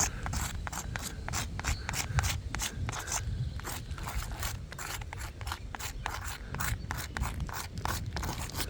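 Soapstone marker scratching across the gritty surface of an asphalt roof shingle in quick, repeated strokes.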